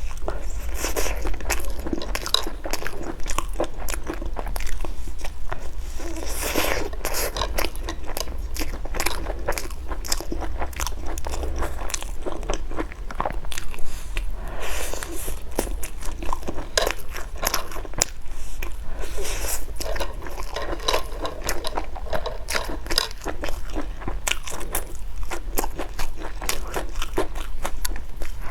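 Close-miked mouth eating tofu skin: biting and chewing with a dense, continuous run of crisp crunches and crackles.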